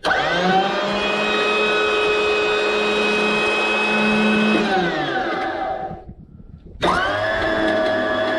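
Handheld electric power tool motor, switched on and running at a steady high speed, then released so it winds down with falling pitch to a stop, and switched on again about two seconds later.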